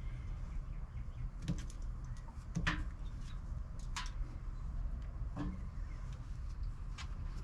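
Scattered sharp clicks and light knocks, about five in all, over a steady low rumble.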